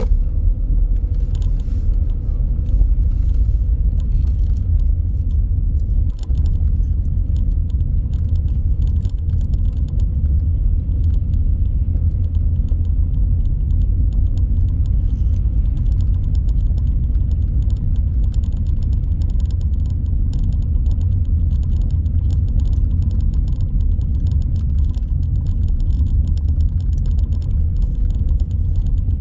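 A car driving at steady city speed: a constant low rumble of engine and road noise, with faint light clicking or rattling on top.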